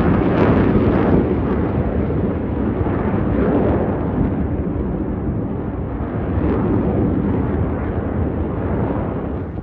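Blue Angels F/A-18 Super Hornet jets passing: a loud, rumbling jet roar that eases slightly and grows duller toward the end.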